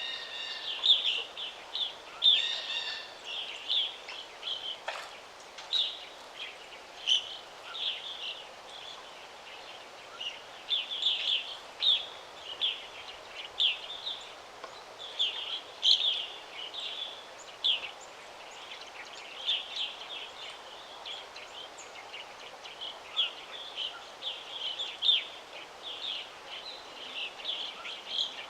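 Small songbirds chirping: many short, high chirps in quick succession, some in brief trills, over a steady soft background hiss.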